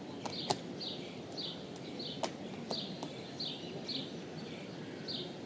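A small songbird calling over and over, a short high note sliding down, repeated about every half second, with a few sharp clicks, the loudest about half a second in.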